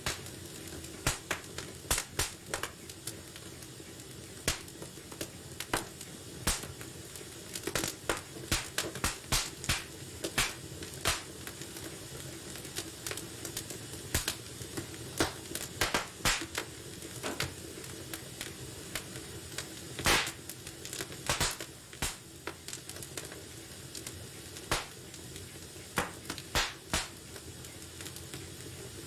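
Wood fire burning in a fireplace, crackling and popping at irregular intervals over a steady low hiss of the flames.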